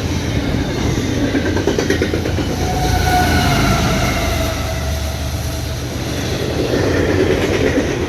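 A freight train rolling past close by, its wheels rumbling and clattering along the rails steadily, with a faint wheel squeal partway through.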